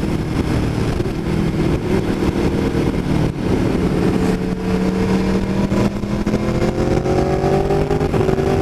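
Aprilia Tuono V4 1100 Factory's V4 engine through an Austin Racing exhaust can, heard on board while riding. Its pitch holds steady at first, dips briefly a little after three seconds, then climbs from about six seconds in as the bike accelerates.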